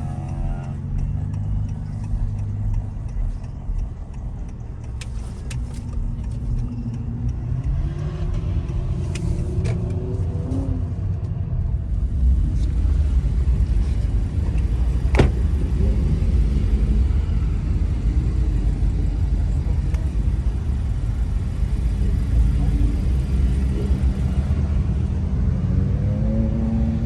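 A car driving, with a steady low engine and road rumble; the engine pitch climbs a few times as the car accelerates. There is one sharp click about halfway through.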